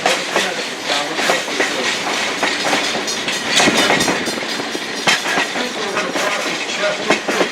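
Railroad passenger coach rolling along the track, heard from on board: a steady clatter of the wheels over the rail with many irregular knocks and rattles from the car.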